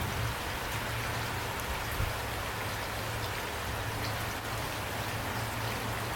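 Steady rain falling, with drops pattering on a surface and a steady low hum underneath.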